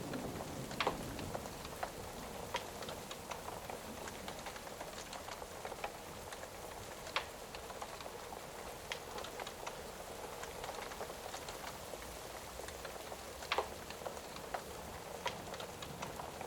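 Steady rain hissing, with a wood fire crackling: scattered sharp pops and snaps over the rain, a few louder ones standing out.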